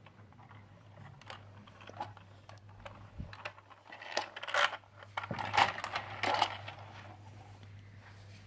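Small plastic Playmobil toy pieces clicking and clattering as they are handled, with a busier run of rattling from about four to six and a half seconds in.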